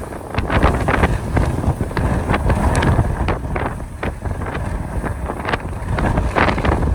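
Strong Santa Ana wind gusts buffeting the microphone: a constant heavy low rumble with many short crackles and rustles.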